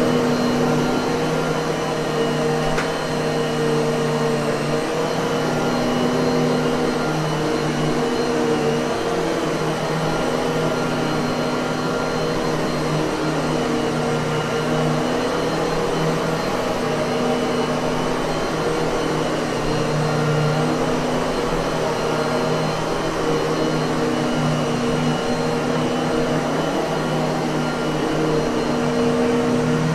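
Miele vacuum cleaner running continuously: a steady motor hum under an even rush of air, its pitch wavering slightly.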